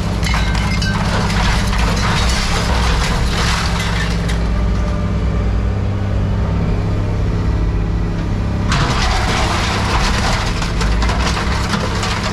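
Heavy machine's diesel engine running steadily while scrap metal is crushed and torn, with crunching and cracking. The crunching eases off about four seconds in and picks up again near nine seconds.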